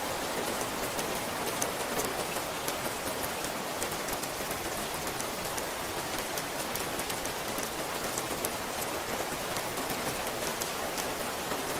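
Steady rain falling, an even hiss with many small drop ticks landing on a surface.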